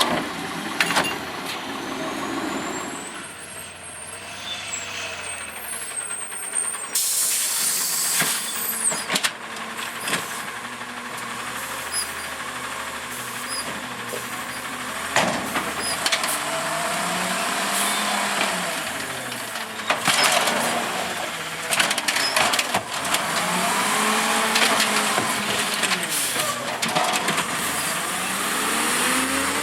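Garbage truck at work: its diesel engine revs up and down several times, with a burst of air-brake hiss and several sharp bangs and knocks.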